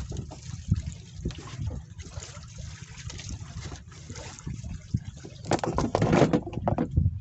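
Water sloshing and splashing against a small fishing boat's hull, with wind rumbling on the microphone; a louder stretch of splashing comes about five and a half seconds in.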